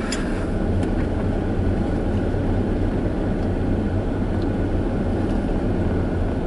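Steady cabin noise inside a slowly moving Tesla Model S: tyre and road rumble with a low hum, and a few faint clicks.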